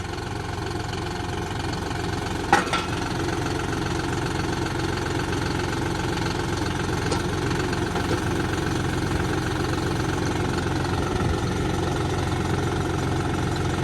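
Tractor's diesel engine idling steadily during a hay spear hookup, with one brief sharp clank about two and a half seconds in.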